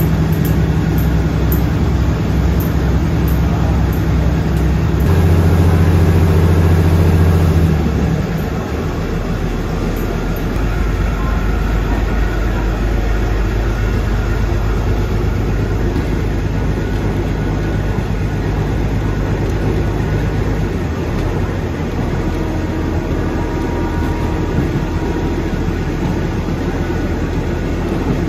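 Diesel railcar's engine running steadily, heard from inside the passenger carriage. It grows louder about five seconds in and drops back near eight seconds, after which the moving train keeps up a steady low rumble.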